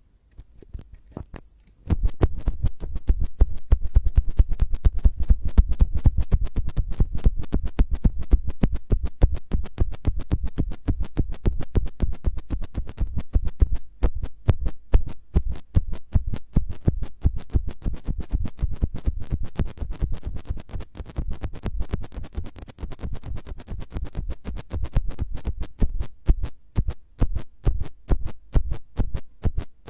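ASMR scratching on a close microphone: a dense, fast run of crackling scratch strokes that starts about two seconds in and grows sparser, into more separate strokes, near the end.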